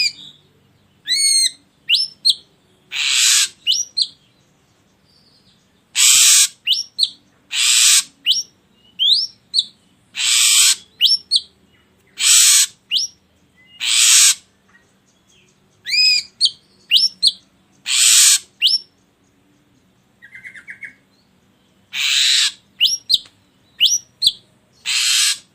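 Ashy drongo calling: loud, harsh rasping notes about every two seconds, between short clear whistled notes, some of them rising in pitch.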